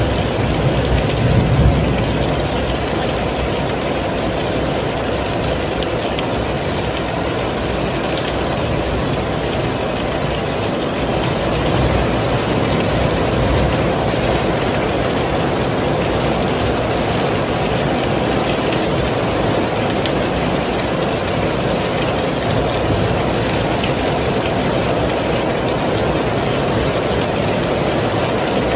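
Heavy rain falling steadily, a dense even hiss with a deep rumble underneath, swelling briefly in the low end about a second in.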